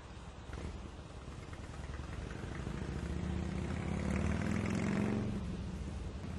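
A train approaching and passing: a steady low hum and a rushing noise build over a few seconds, peak about four to five seconds in, then fade.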